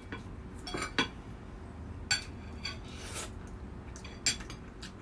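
Eating utensils clinking and tapping against plates and bowls during a meal: a few separate short clicks a second or so apart.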